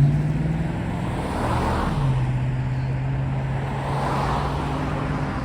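Train passing at a grade crossing: a steady low locomotive engine hum that drops in pitch about two seconds in, with two swells of rushing noise.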